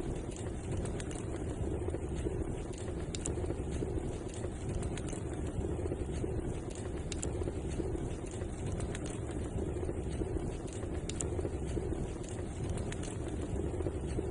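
Wood fire crackling in a fireplace: scattered sharp pops and snaps over a steady low rumble of flame.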